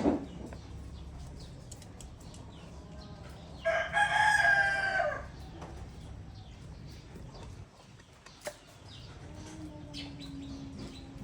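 A single loud, drawn-out crowing bird call about four seconds in, lasting about a second and a half, over a steady background of birds in a loft with scattered small clicks.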